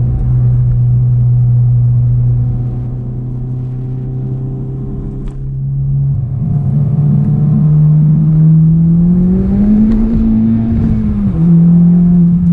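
Turbocharged 2.0-litre four-cylinder of a stage 2 Honda Civic Type R FK8 with a full 3-inch exhaust, heard from inside the cabin. It cruises steadily, eases off and gets quieter, then pulls harder with the pitch climbing. Near the end the pitch drops sharply as it shifts up a gear, then it holds steady.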